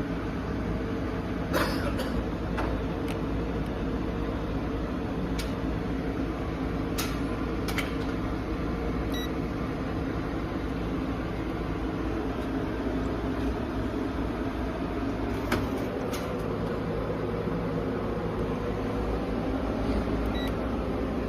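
A steady low hum with a few sharp clicks from a green line-laser level being handled and switched. Two very short, faint high beeps come about nine seconds in and again near the end.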